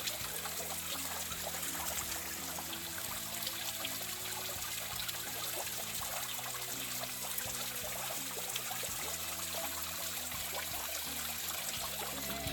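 Small waterfall running steadily through a narrow rock slot.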